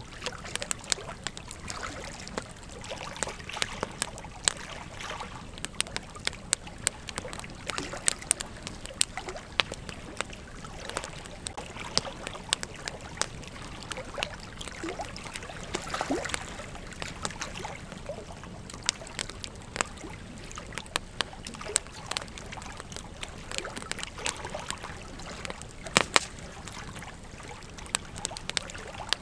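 Campfire burning, the wood crackling and popping in many sharp, irregular snaps over a steady hiss, with one louder pop near the end.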